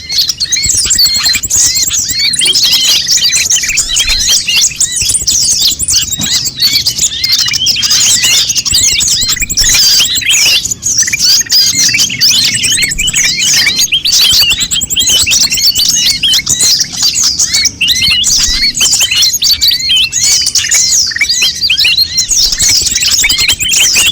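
Many konin birds chirping and calling noisily at once: a dense, unbroken chatter of short high chirps and quick up-and-down glides.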